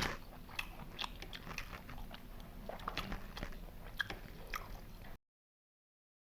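A person chewing and biting into country chicken biryani, with irregular crunches and wet clicks. The sound cuts out to dead silence about five seconds in.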